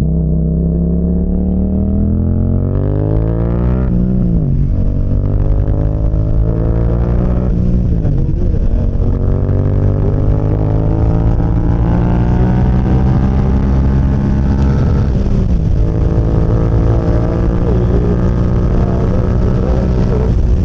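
Yamaha CP2 689 cc parallel-twin motorcycle engine accelerating hard through the gears: its pitch climbs in each gear and drops at upshifts about 4, 8 and 15 seconds in, the climbs slower in the higher gears.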